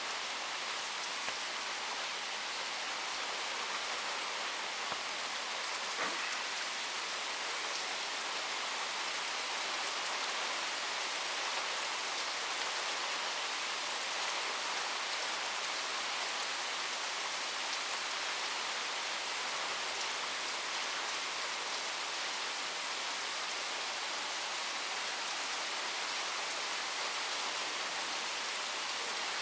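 Steady rain falling and pattering on surfaces, with a few faint drop clicks.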